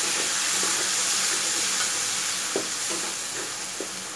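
Chana dal and spiced oil sizzling in a metal kadhai as a wooden spoon stirs them together, with a few light knocks of the spoon against the pan.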